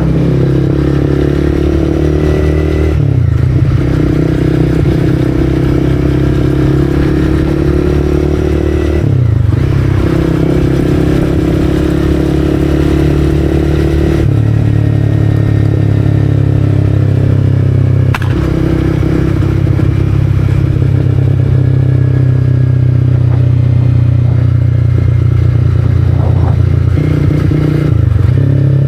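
Honda CB300R single-cylinder engine through an aftermarket Arrow exhaust, pulling steadily under way with several brief breaks in the note where the rider shifts gear.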